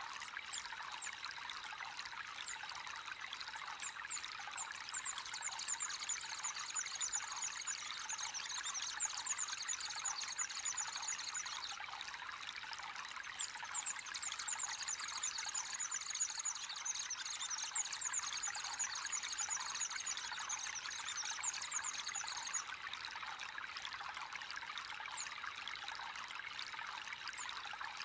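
Water trickling and pouring steadily into a koi pond, with rapid high-pitched chirping over it that stops abruptly near the end.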